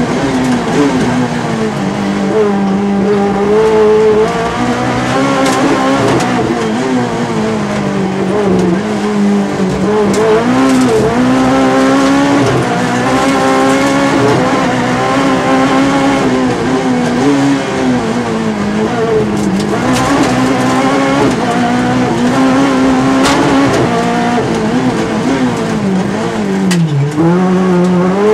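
Volkswagen Golf 3 Maxi rally car's engine, heard inside the cabin, driven hard through the gears: the pitch climbs and drops again and again as it revs up and shifts, with deeper dips as it slows for corners.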